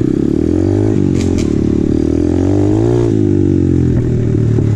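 2020 Apollo RFZ 125cc pit bike's single-cylinder four-stroke engine running under throttle while riding. The revs dip about a second in, climb to a peak near three seconds, then drop back.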